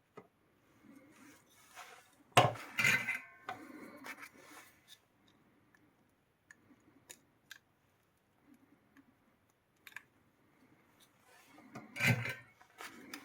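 Small metal tools clattering and clinking on a workbench during desoldering: two louder clatters with a brief metallic ring, about two seconds in and near the end, and small ticks between.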